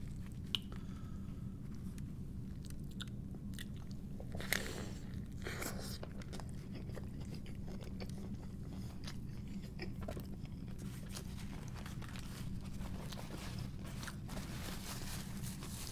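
Close-miked mouth sounds of a person biting into and chewing a burger: soft crunches and wet clicks, busier about four seconds in and again near the end, over a steady low hum.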